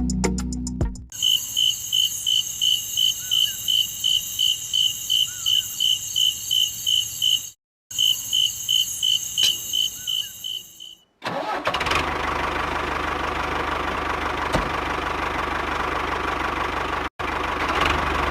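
Small electric motor of a homemade model machine running: first a high chirp repeating about three times a second, then from about eleven seconds a louder, steady running whir.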